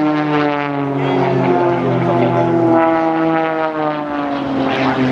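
Aerobatic propeller plane's engine and propeller droning loudly, its pitch slowly falling.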